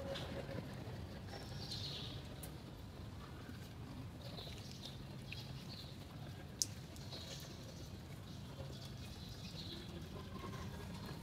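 A bird calling again and again with short high chirps over a low steady background hum, with one sharp click about six and a half seconds in.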